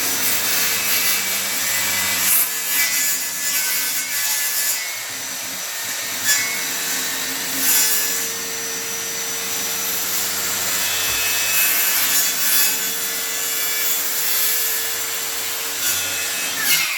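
Circular saw running and cutting into a wooden board, the noise swelling and easing unevenly as the blade bites. Near the end the saw is switched off and its pitch falls as it winds down.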